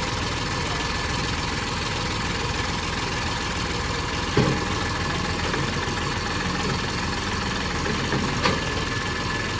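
Mahindra 6530 tractor's diesel engine idling steadily just after starting, with two brief knocks about four and eight and a half seconds in.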